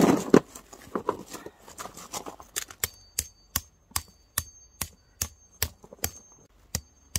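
Metal tent stake being hammered into the ground: a steady run of sharp strikes, about two and a half a second, each with a short metallic ring, starting about three seconds in after a burst of rustling and a few scattered knocks.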